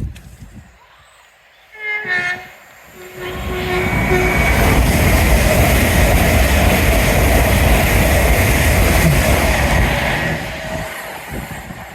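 A train sounds its horn about two seconds in, one short blast followed by a lower, longer note, then passes close by with a loud, steady rumble of wheels on rail for about six seconds before fading away.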